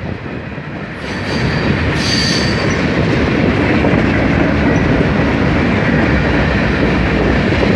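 Norfolk Southern freight train rolling past close by, its wheels clattering steadily over the rails and growing louder about a second in, with a brief high wheel squeal early on.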